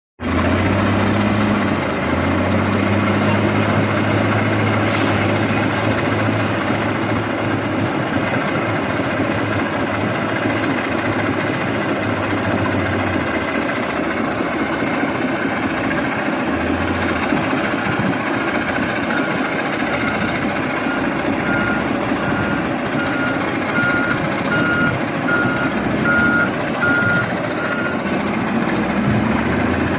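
Heavy machinery running with a loud, steady noise and a low engine hum, most prominent in the first half. In the second half a reversing alarm beeps about once a second, getting louder.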